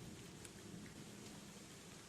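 Faint, steady rain falling on leaves, with a few separate drops ticking now and then.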